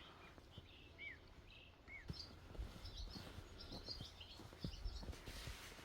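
Faint songbird chirping outdoors. A few short downward-sliding chirps come in the first two seconds, then a busier patch of higher twittering.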